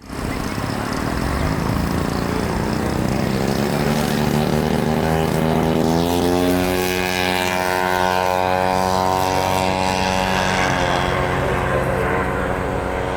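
Engine of a radio-controlled P-40 Warhawk scale model airplane running loud and steady, its pitch rising from about two to six seconds in and then holding.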